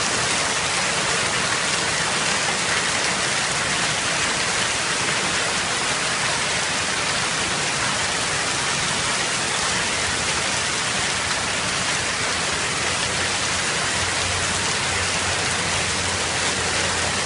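Heavy rain pouring steadily in a storm, a dense even hiss of rain on surfaces.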